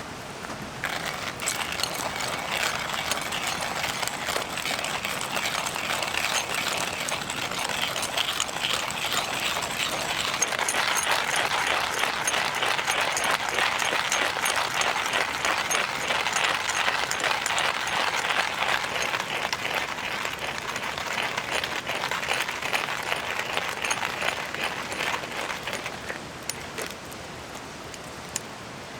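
Coffee beans being ground in a coffee grinder: a dense, gritty crunching that starts about a second in and stops a couple of seconds before the end, over a steady rush of stream water.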